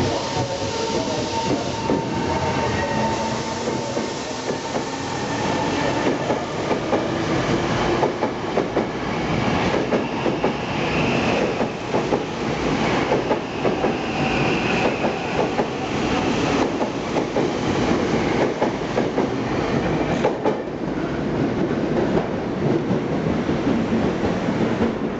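Tokyo Metro 05 series electric commuter train pulling away. Motor tones rise in pitch as it gathers speed in the first few seconds. Then the wheels clatter steadily over the rail joints as the cars roll past, easing off near the end.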